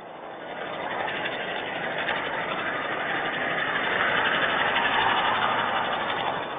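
A vehicle passing by, its tyre hiss on a wet road swelling over a few seconds and fading near the end.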